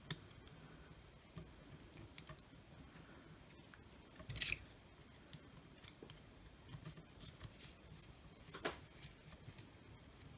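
Wire cutters snipping through a circuit-board component's metal legs: a sharp snip about four and a half seconds in and another near nine seconds, with small clicks of handling between.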